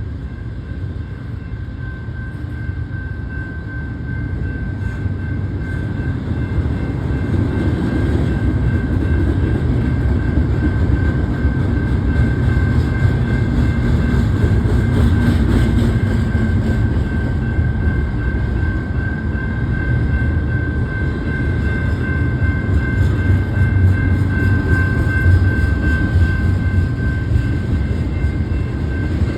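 BNSF freight train with diesel locomotives running past: a heavy low rumble that grows louder over the first several seconds and then holds steady, with a thin steady high tone running over it.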